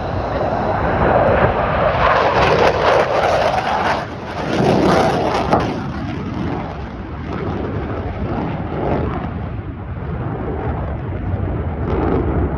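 Military fighter jet flying past, its engine noise loud and rushing. The noise peaks in the first few seconds, surges again about five seconds in, then settles into a lower, uneven rumble as the jet draws away.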